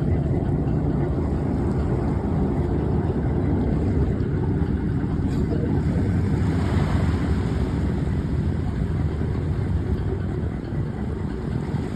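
Steady low rumble of the Sandbanks chain ferry's engines running during the crossing, heard from aboard.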